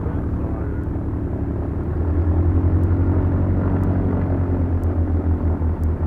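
Beechcraft Duchess's twin four-cylinder Lycoming piston engines and propellers running on the ground, heard from the cockpit; the engine note gets louder about two seconds in as power comes up a little.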